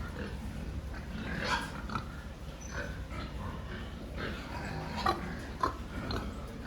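Pigs grunting and calling in short, scattered bursts as they are moved for loading, over a steady low rumble, with two sharp knocks about five seconds in.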